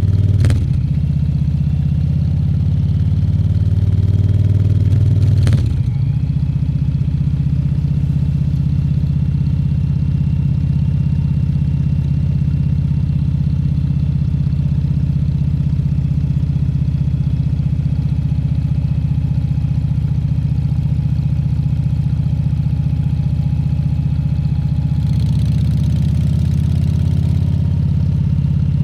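Harley-Davidson Fat Bob 114's Milwaukee-Eight V-twin running under way: revs climb for the first few seconds, a gear change about five and a half seconds in, then it cruises at a steady pitch. A brief hiss rises over it near the end.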